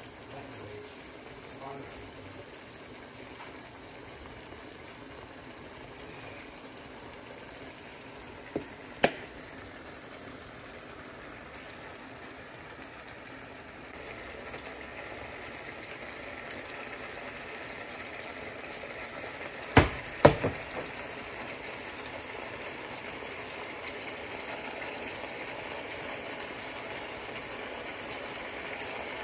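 Salmon fillets sizzling and bubbling in butter in a frying pan: a steady sizzle that grows louder about halfway through. A few sharp knocks cut across it, two close together near two-thirds of the way in.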